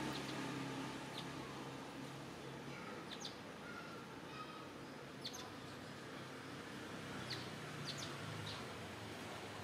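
Small birds chirping: short, high chirps every second or two. A low hum fades out over the first three seconds.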